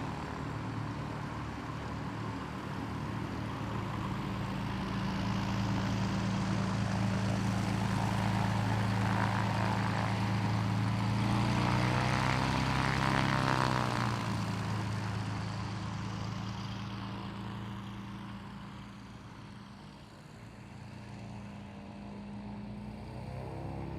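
A light propeller aircraft passing by. Its steady engine drone grows louder to a peak a little past halfway, then fades as it moves away, settling slightly lower in pitch.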